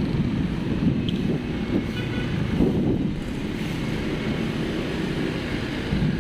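Steady rumble of road traffic and a moving vehicle, with wind buffeting the microphone.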